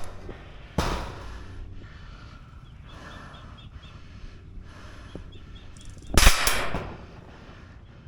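Airsoft gunfire: two loud sudden bursts, about a second in and again near the end, with short runs of faint rapid clicking from more distant full-auto fire in between.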